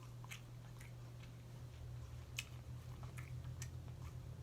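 A person chewing a mouthful of seafood pasta close to the microphone: soft, scattered wet mouth clicks and smacks, over a steady low hum.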